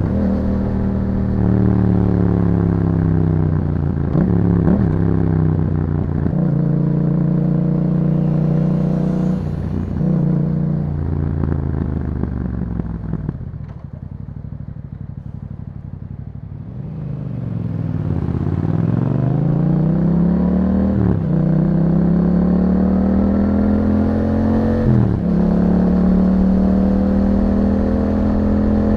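2021 Yamaha MT-07's parallel-twin engine through an Akrapovic exhaust, accelerating through the gears with the revs climbing and dropping at each upshift every few seconds. About halfway through it eases off to a quieter, low-revving stretch, then pulls hard again with several more upshifts.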